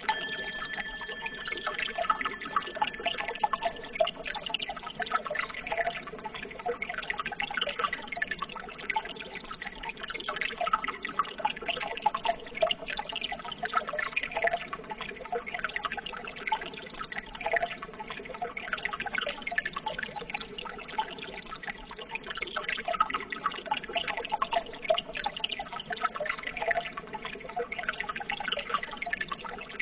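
Running water trickling and babbling steadily. A high ringing tone fades out over the first few seconds.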